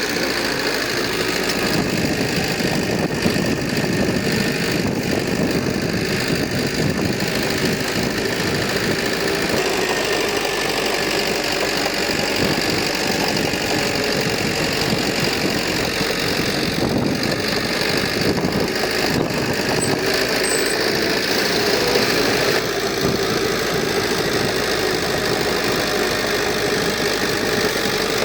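Heavy diesel engine of earthmoving machinery running steadily at an even level.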